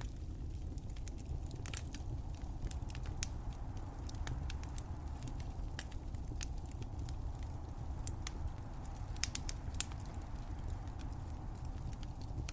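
Wood fire crackling: irregular sharp pops and snaps, a few in quick clusters, over a steady low rumble.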